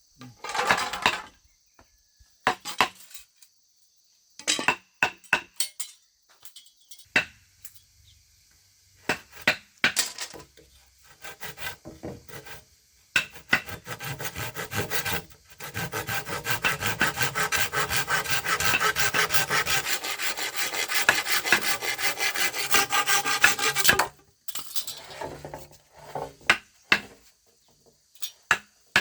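Scattered knocks and taps of bamboo being handled, then, from about 13 seconds in, a hand saw cutting bamboo with quick, even strokes for about ten seconds, followed by a few more knocks.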